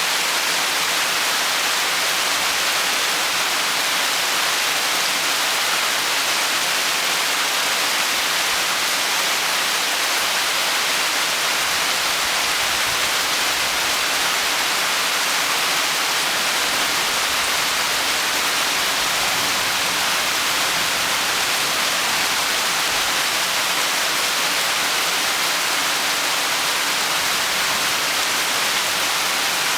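Heavy tropical rain falling steadily: a dense, even hiss with no separate drops or thunder standing out.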